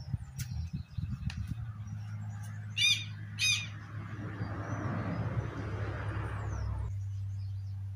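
Two short bird calls about half a second apart, the loudest sounds here, over a steady low hum; from about the middle a rushing noise rises and then cuts off abruptly a second before the end.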